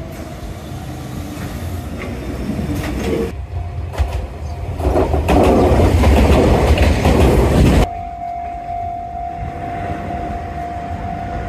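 Enoden electric trains on the track: a train rumbles past close by, its wheels clacking over the rail joints, growing loud in the middle and then cutting off suddenly. It is followed by a steady high-pitched tone.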